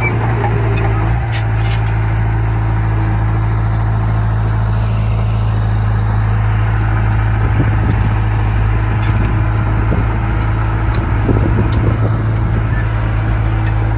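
Heavy diesel engine running at a steady speed with a strong low hum, a few faint clicks over it.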